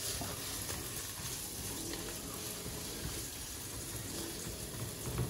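Carrots, garlic and chili pepper sizzling steadily in oil in a frying pan.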